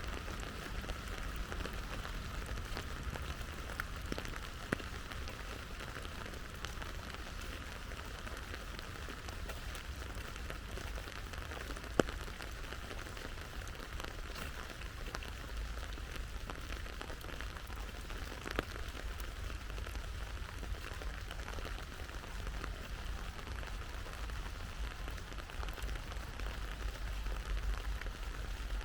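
Steady autumn rain falling, an even hiss with scattered single drops landing in sharp ticks, the loudest about twelve seconds in.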